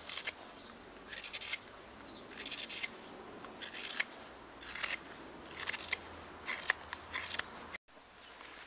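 Roughing gouge shaving across the grain of seasoned alder wood while hollowing a carved spoon bowl: a series of short, crisp cutting strokes, roughly one a second.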